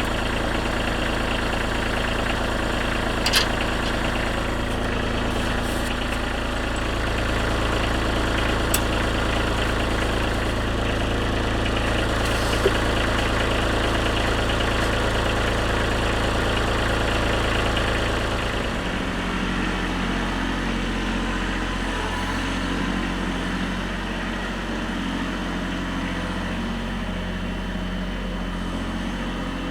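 Kubota B2320 compact tractor's three-cylinder diesel engine running steadily, its low note shifting and easing slightly about two-thirds of the way through, with a few short clicks along the way.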